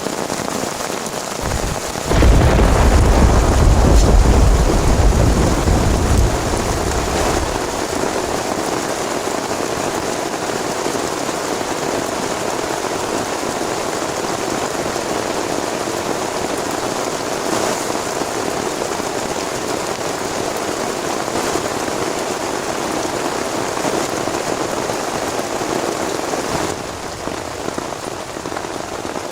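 Heavy rain falling steadily, with a low roll of thunder that breaks in about two seconds in and rumbles away over the next five seconds.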